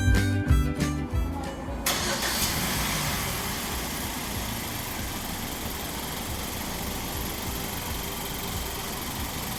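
Background music stops abruptly about two seconds in, giving way to the rebuilt Hyundai i45 engine running steadily at idle.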